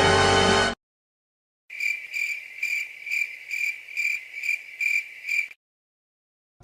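A music clip cuts off under a second in; after a short gap comes a crickets sound effect: a high cricket chirp repeated steadily, about two to three chirps a second, for about four seconds before stopping.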